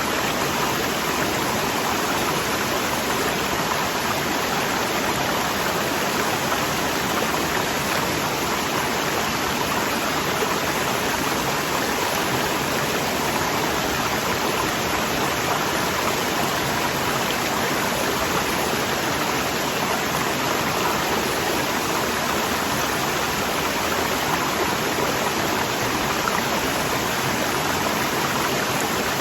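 Waterfall: water rushing steadily, a dense even hiss with no breaks or changes.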